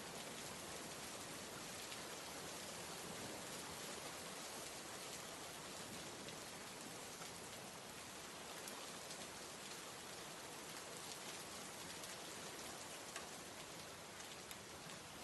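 Steady rain: an even hiss of falling rain with a few scattered drop ticks.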